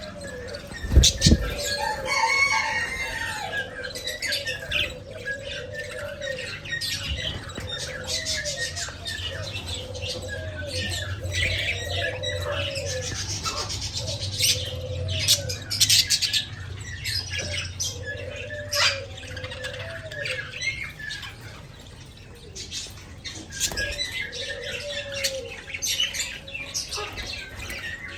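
Budgerigars chirping and chattering in repeated short calls, with frequent sharp pecking clicks.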